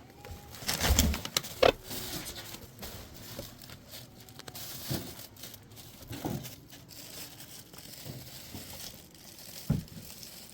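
Rustling and crinkling handling noise, loudest about a second in, followed by a few scattered light knocks.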